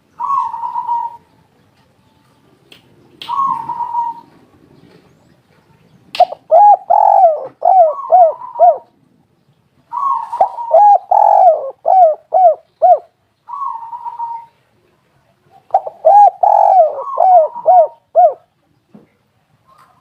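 Spotted dove cooing: two short single coos, then from about six seconds in repeated phrases of quick, rounded coo notes, in three main bursts with short gaps.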